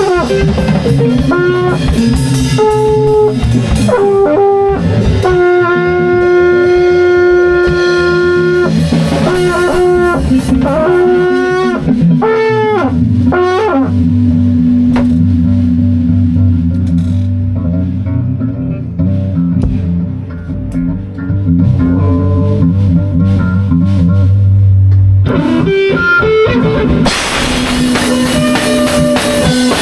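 Live band improvising: drums and a held, pitched lead line over low bass notes. The drums and cymbals drop out for several seconds in the middle, leaving long sustained bass notes, and come back in near the end.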